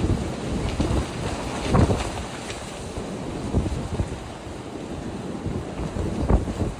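Gusty wind buffeting the microphone: an uneven low rumble that swells in stronger gusts about two seconds in and again near the end.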